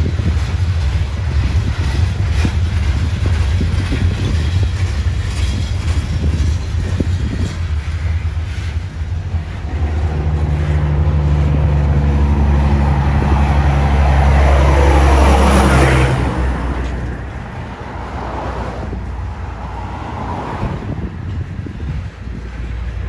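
Freight train of steel coal hopper cars rolling past, wheels on the rails making a steady low rumble. About halfway through, a passing road vehicle's engine swells to the loudest point, then falls away sharply about two-thirds of the way in.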